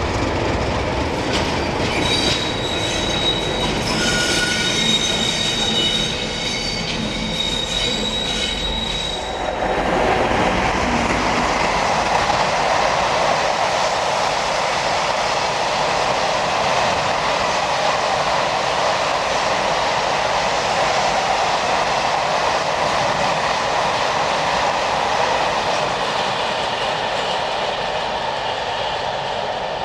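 Train passing on the rails. For the first ten seconds or so there is a low rumble with steady high-pitched wheel squeal. After that comes a steady rushing noise of wheels running along the track.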